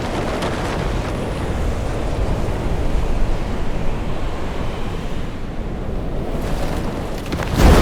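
Steady rush of wind and sea surf with a deep rumble, and a sudden louder surge of noise near the end.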